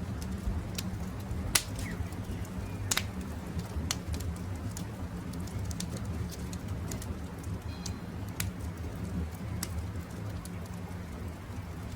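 Wood campfire crackling, with irregular sharp pops and snaps over a steady low rumble of burning. A few faint bird calls sound in the background.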